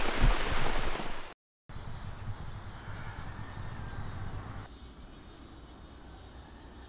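Heavy rain hissing for about the first second, then it cuts off abruptly. After that comes a much quieter wet morning ambience with faint crow-like cawing.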